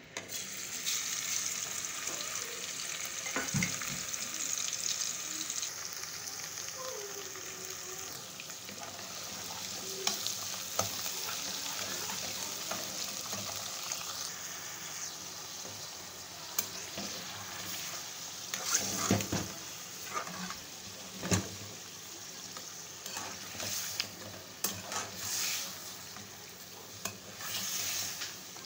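Hot oil sizzling in a steel karahi as a paste and then mutton pieces fry in it, with a steel ladle stirring and scraping. The ladle knocks against the pan several times, most often in the second half.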